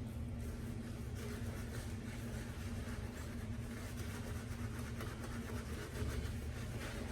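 Steady low mechanical hum with a constant droning tone, heard in a small room, with faint soft swishing of a boar-bristle shaving brush working soap lather.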